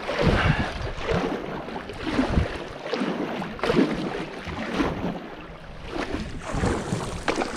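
Kayak paddle strokes splashing into the water in a steady rhythm, about one a second, with wind buffeting the microphone.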